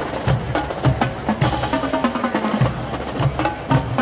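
Marching band music with drums to the fore: a run of quick drum strokes with some short held pitched notes.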